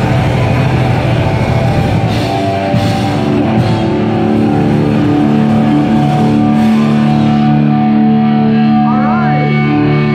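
Live rock band playing loud, with electric guitar to the fore. Held chords ring out from about four seconds in, with a quick sliding pitch near the end.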